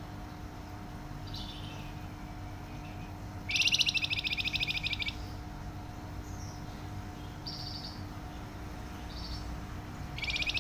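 Flamboyan songbird singing loud, very rapid high trills: a long trill of about a second and a half a little over three seconds in, short trills between, and another loud trill starting near the end. A faint steady hum runs underneath.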